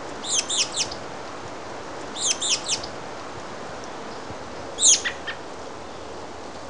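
A small bird calling: short phrases of quick, high, downslurred chirps, three times about two seconds apart, over a steady outdoor hiss.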